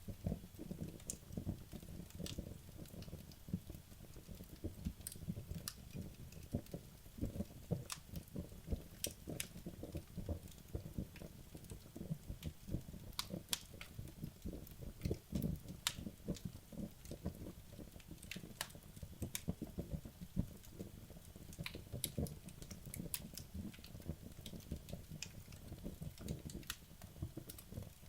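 Wood logs burning in a fireplace: a dense low crackle of the flames with frequent sharp, irregular pops and snaps.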